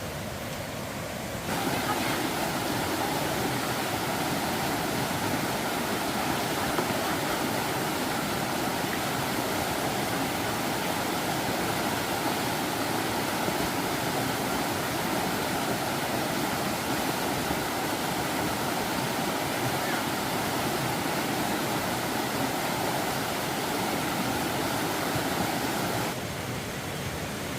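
A steady rush of water, starting abruptly about a second and a half in and cutting off abruptly near the end.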